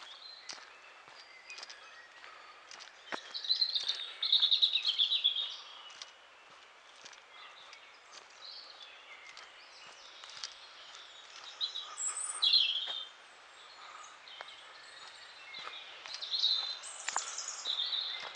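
Songbirds singing: bursts of high, rapid trilling phrases, loudest about four seconds in and again around twelve and seventeen seconds. Soft footsteps sound along the path.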